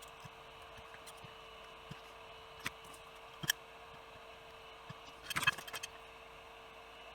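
A few short clicks and taps of small parts and tools being handled on a workbench: two single clicks, then a brief cluster of clicks a couple of seconds later, over a faint steady hum.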